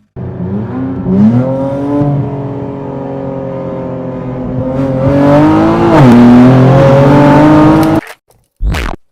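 Infiniti Q60's twin-turbo V6 accelerating hard, its pitch climbing, holding, then climbing again after a short drop about six seconds in. It cuts off suddenly about eight seconds in, followed by a brief separate burst of sound near the end.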